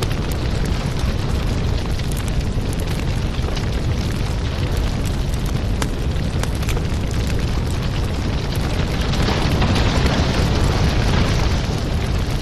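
Wood fire in a fireplace crackling: many small pops and snaps over a steady low rumble, with a hissing swell that rises about nine seconds in and eases off near the end.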